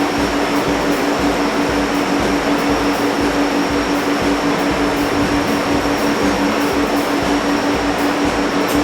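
Steam-powered machinery running steadily: a loud, even mechanical noise with a fast regular pulse and a steady hum underneath.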